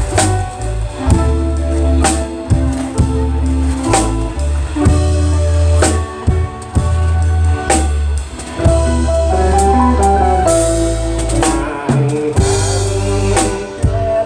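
Live band playing an instrumental passage: drum kit with a sharp hit about every two seconds, heavy bass notes, and a guitar melody line.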